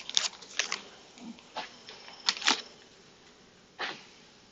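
Snack packaging rustling and crinkling in short bursts as the packets are handled.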